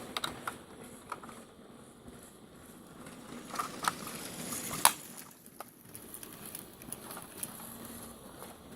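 A few light plastic clicks and taps from Lego pieces being handled, the loudest about five seconds in, over a quiet room background.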